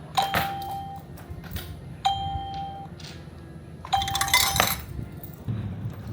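A bell-like chime or doorbell-style ding sounds three times, each a single clear tone about two seconds apart. The third ding comes with a short noisy burst. A low rumble of wind or background noise follows near the end.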